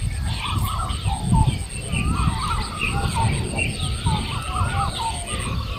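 A chorus of birds calling at once, many short warbling, rising and falling calls overlapping throughout, over a steady low rumble.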